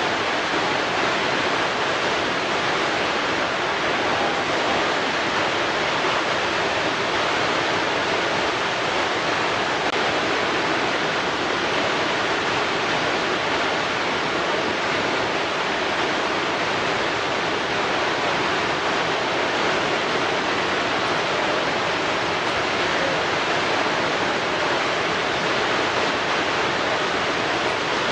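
Water rushing against rocks in a steady, unbroken wash, with no separate splashes or surges.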